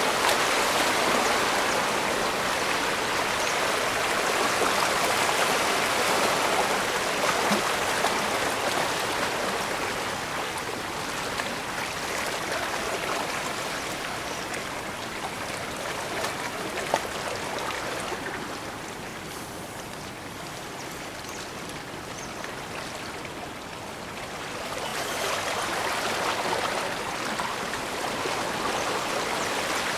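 Water of a bay washing and rushing in a steady hiss that eases off about two-thirds of the way through and swells again near the end.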